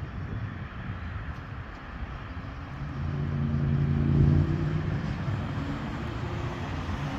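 Steady rumble of an approaching diesel freight train, with an engine drone that swells about three seconds in, peaks near the middle and then eases off.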